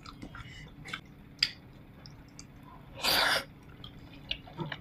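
Quiet mouth sounds of someone gnawing on braised pork ribs: scattered small wet clicks, with one short breathy hiss about three seconds in.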